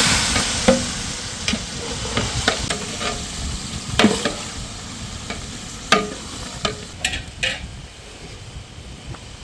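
Raw chicken pieces going into hot oil with fried onions and spice paste in a cooking pot, sizzling loudly as they go in and then dying down. A spoon scrapes and knocks against the pot several times as the chicken is stirred into the masala.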